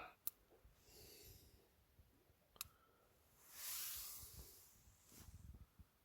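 Near silence, with two faint sharp clicks about two seconds apart and a soft hiss of noise a little after the middle.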